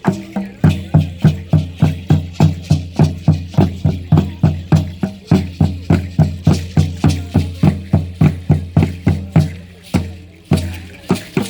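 Mexica ceremonial dance music: a deep drum struck in a fast, even beat, about three to four strokes a second, with shaken rattles over it. The beat breaks off briefly near the end and then starts again.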